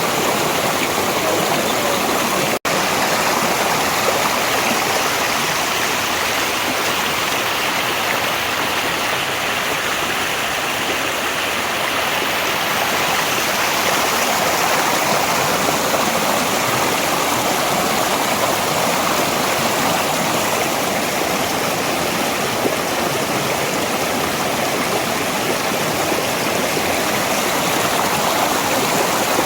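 Mountain valley stream flowing: a steady, unbroken rush of water, with a split-second dropout about two and a half seconds in.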